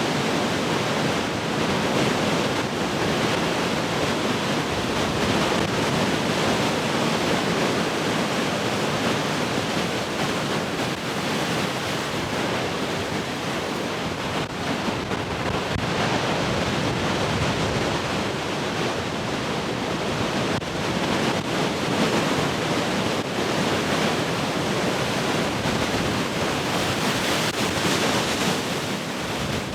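Heavy ocean surf breaking and washing continuously, with wind blowing across it. The rush rises and falls in slow swells.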